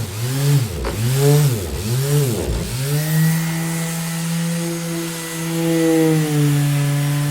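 Orbital sander running with a steady motor hum and grinding noise. In the first three seconds its pitch sags steeply and comes back up three times, then it holds a steady pitch.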